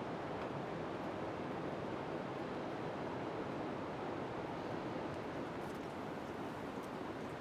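Steady heavy rain, an even unbroken hiss, with a few faint ticks in the second half.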